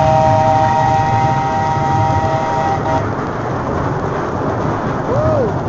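Old steam train's whistle sounding a steady chord of several notes, which stops about three seconds in. Under it the train runs on with a continuous low rumble.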